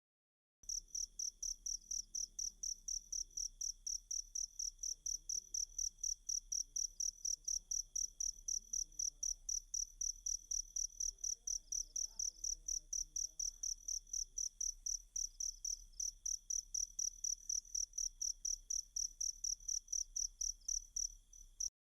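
Cricket chirping in a fast, even rhythm of about four high-pitched pulses a second; it starts about half a second in and cuts off suddenly near the end.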